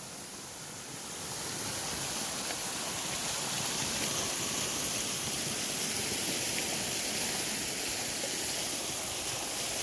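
Rushing water from a stream running high and spilling over a beaver dam: a steady rush that grows louder a second or two in and then holds.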